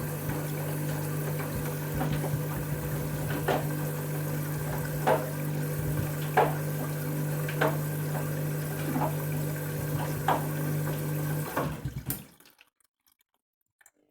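Candy front-loading washing machine filling with water: a steady hum with rushing water, and short knocks about every second and a quarter as the drum turns the load. The sound cuts off suddenly about twelve seconds in.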